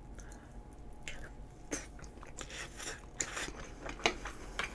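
A person chewing a mouthful of curry and fried toppings, with irregular crackling clicks as the food is bitten and chewed.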